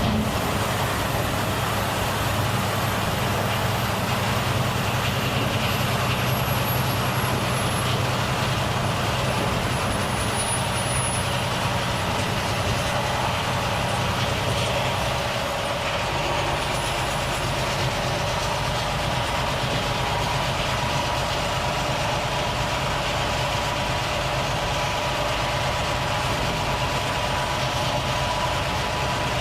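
Volvo FH truck's engine running steadily. About halfway through, the low engine note changes and settles into a steady, idle-like hum.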